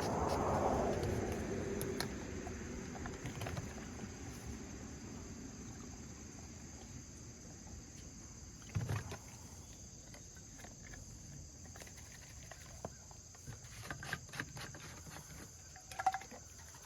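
Crickets chirping steadily. A broad rush swells and fades over the first few seconds, and a few short clicks and knocks come later.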